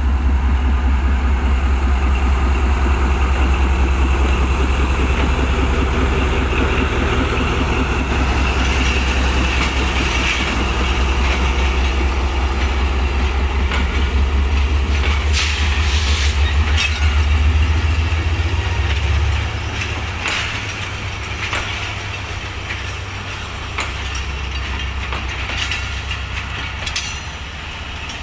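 Diesel-electric locomotive of the departing express train running with a deep engine rumble as it pulls out, then fading away about two-thirds of the way through. Passenger coaches roll past, their wheels clicking over rail joints.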